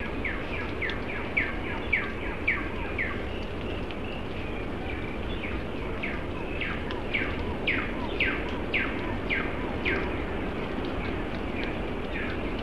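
A bird singing two runs of repeated down-slurred whistled notes, about two a second, the second run starting about halfway in. Steady low background noise runs underneath.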